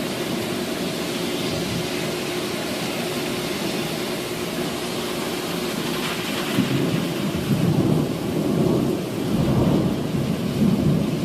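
Thunderstorm: heavy rain falling steadily, and about six and a half seconds in a rolling rumble of thunder builds and carries on.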